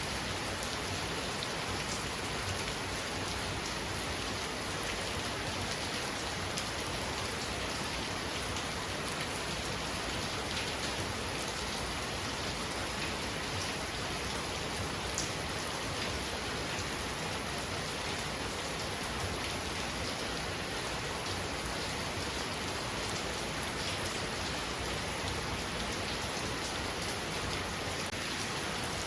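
Heavy rain falling steadily, an even hiss with scattered drops ticking on surfaces.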